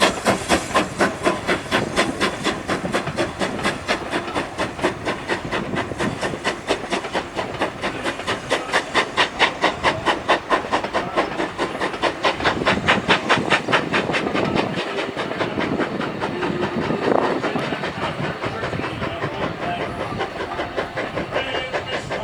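Steam locomotive working a train, its exhaust beating rhythmically about three times a second over a steady hiss; the beats fade away about two-thirds of the way through.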